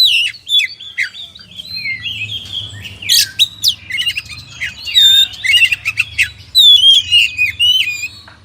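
Oriental magpie-robin (kacer) singing a fast, varied song of whistles and chirps, with notes sweeping up and down, sharp clicks and no pause.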